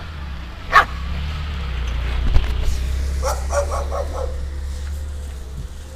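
Dog barking: one sharp bark about a second in, then a quick run of four or five short barks near the middle.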